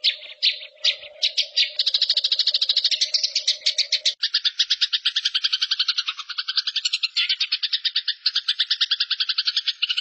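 Recorded bird song played as a masteran training track. A few separate sharp chirps, then from about two seconds in a fast, unbroken trill of repeated high notes, about ten a second.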